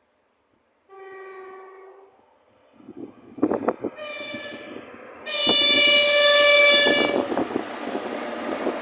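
VL85 electric locomotive hauling a timber freight sounds its horn as it approaches: a faint blast about a second in, a higher one near the middle, then a long loud blast. Wheels clatter and rumble on the rails as the train passes.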